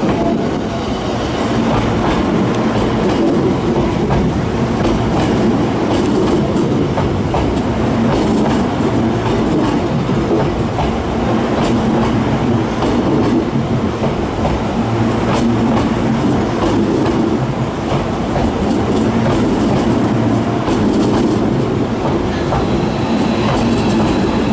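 Hankyu electric train pulling into the station, its cars rolling steadily past with the wheels clicking over rail joints.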